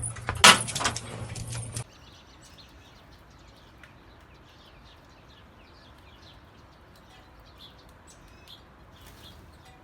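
For the first two seconds, a loud clatter over a steady hum, which cuts off suddenly. Then many faint, short bird chirps, high and quick, scattered throughout.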